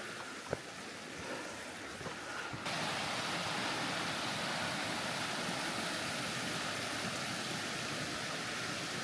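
Steady rushing of a mountain creek's water, with a few light clicks early on; about two and a half seconds in the rushing turns suddenly louder and fuller and stays steady.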